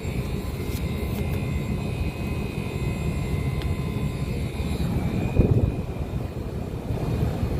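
Split air conditioner's outdoor unit running: a steady low hum from the compressor and fan with a faint high whine, and a brief bump about five and a half seconds in.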